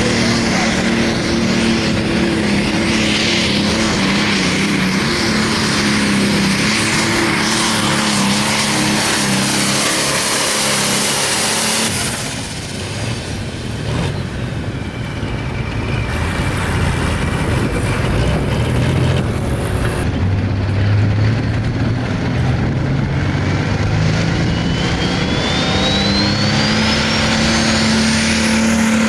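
Turbocharged diesel engine of a light pro stock pulling tractor running hard at high revs under load. About twelve seconds in it drops off, then builds again, rising in pitch with a thin rising whistle near the end.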